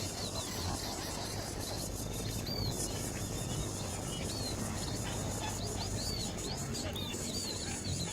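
Small birds chirping: many short, high-pitched chirps, irregularly spaced, over a steady low rumbling noise.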